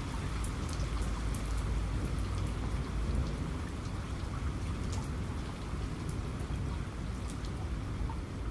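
Steady rain falling, with scattered individual drops ticking sharply close by. Under it runs a low rumble of distant thunder, strongest in the first few seconds.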